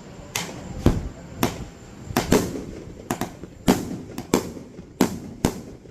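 Fireworks going off in a rapid, irregular series of sharp bangs, about a dozen in six seconds, each with a brief echoing tail.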